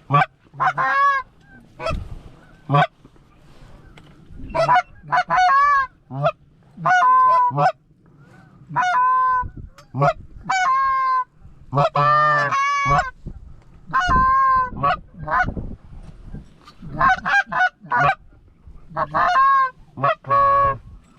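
Canada goose honks and clucks, loud and close, in a string of short bursts with brief gaps between them.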